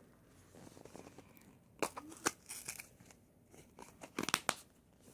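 Can of Kayak LongCut Wintergreen dipping tobacco being handled and opened: faint crinkling and a handful of sharp clicks, with sharper clicks about two seconds in and a quick cluster just past four seconds.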